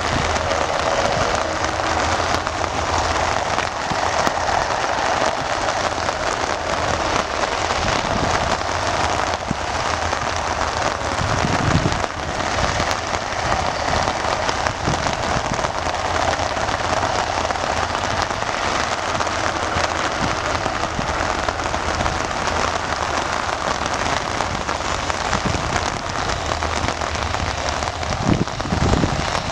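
Steady rain falling and pattering on surfaces, a continuous even hiss.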